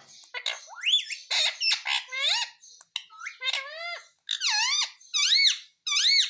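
Pet parrot calling: a quick run of short chattering notes, then three loud squawks, each rising and then falling in pitch.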